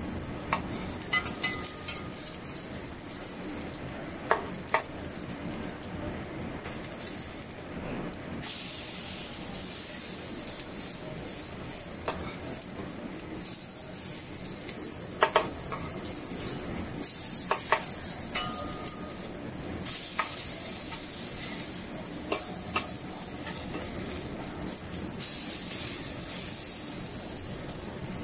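Corn and egg fritters sizzling in oil in a wok as a metal spatula turns them, with sharp scrapes and clinks of the spatula against the pan now and then. The sizzle swells louder in several spells.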